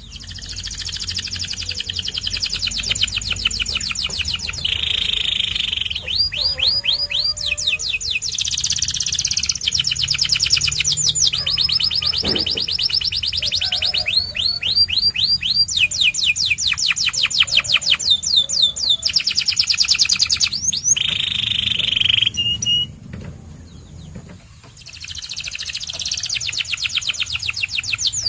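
Domestic canary singing a long song of rapid trills and rolls, switching from one run of fast repeated notes to another every second or two, with a short pause late on.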